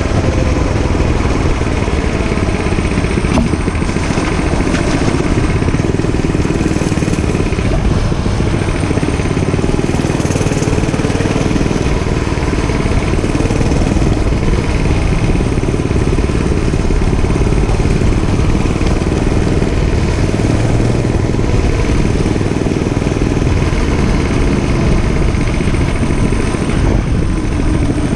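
Dirt bike engine running steadily while being ridden, with no sharp revs or stops.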